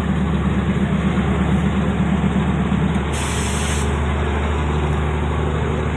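THN/NKF/ATR diesel multiple-unit railcar running, heard on board: a steady low engine drone over wheel and track noise. About three seconds in, the drone eases and a short hiss of air sounds for under a second.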